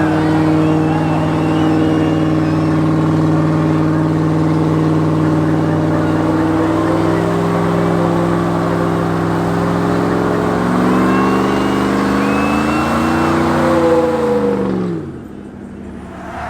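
Truck engine held at high revs, the pitch creeping up over several seconds, then let off near the end so the revs fall away quickly.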